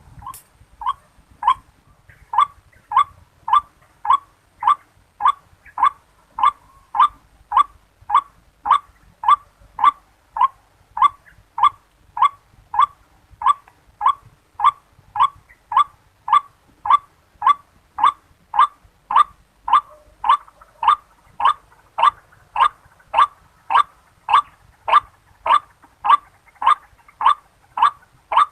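White-breasted waterhen (ruak-ruak) calls: a short, identical call repeated very regularly, about three every two seconds, without a break.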